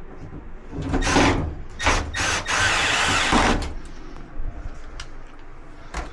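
Cordless drill driving screws into dryer panels: a burst about a second in, two short bursts, then a longer run of about a second, with light clicks of handling between.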